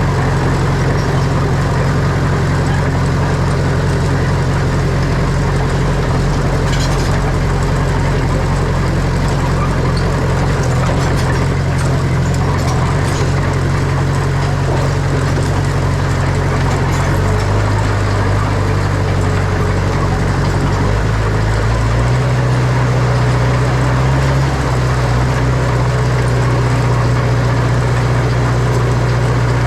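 Heavy diesel engine of earthmoving machinery running steadily. Its note shifts a little just past halfway and again a few seconds later.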